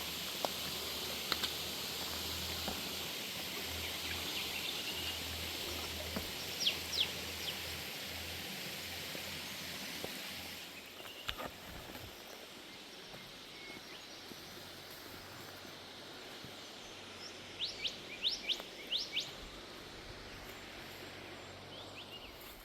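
Birds calling in short, sharp chirps, a few about seven seconds in and a quicker run of them around eighteen seconds, over a steady outdoor hiss that drops away abruptly about ten seconds in.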